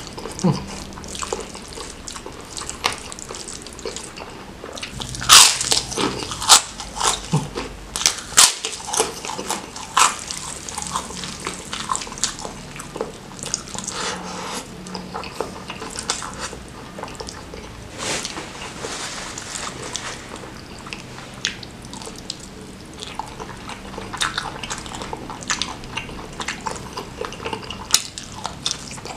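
Close-miked chewing of spicy stir-fried squid with petai beans and rice, with wet mouth and lip smacks and sharp crunchy bites, the loudest crunches coming about five to ten seconds in.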